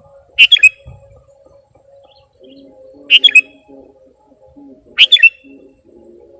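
Sooty-headed bulbul (kutilang) calling: three short phrases of a few quick notes each, about two seconds apart.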